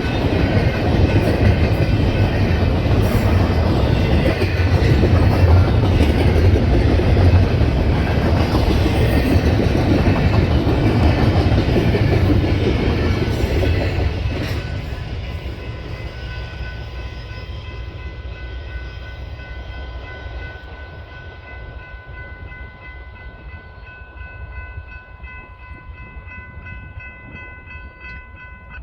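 A train passing close by, its wheels rumbling and clacking over the rails, then fading away after about 14 seconds. As it recedes, a steady high-pitched tone of several notes sets in and holds.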